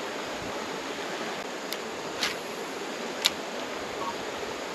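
Steady rush of running creek water, with three short sharp clicks in the middle.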